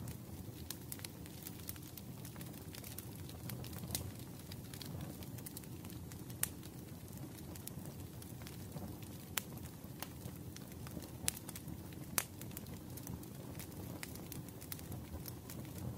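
Wood fire crackling in a fireplace: a steady low rumble of flames with sharp pops every second or few.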